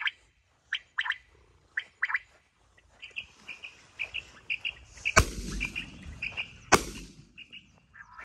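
Small birds chirping in short, repeated high calls. Two sharp bangs about a second and a half apart come a little past the middle, louder than the chirping.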